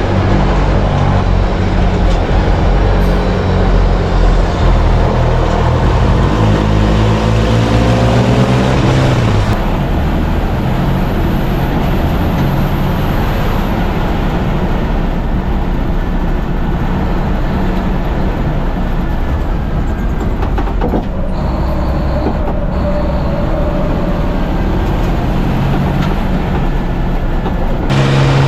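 Racing truck engine running hard under load, its pitch rising as it accelerates. About a third of the way in, the sound switches abruptly to a steadier engine and road noise, and it changes again near the end.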